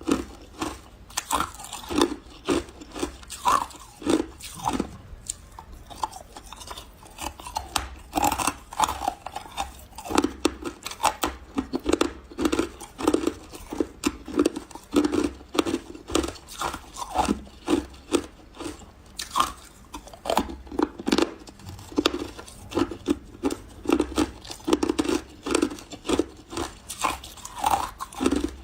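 Close-up biting and chewing of refrozen powdery ice, a run of soft, crunchy bites several times a second with a short lull about five seconds in.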